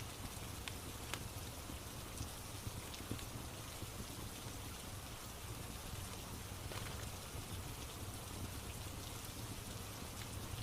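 Steady rain with a few faint, sharp crackles of a wood fire scattered through it.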